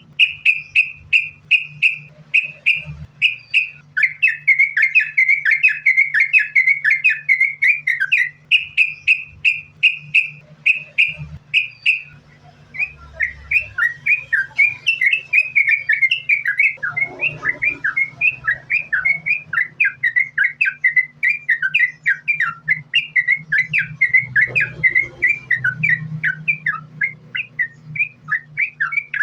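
Yellow-vented bulbul (trucukan) singing in a long, unbroken run of short, quick, bubbling notes, several a second, with a brief pause about twelve seconds in. A steady low hum runs underneath.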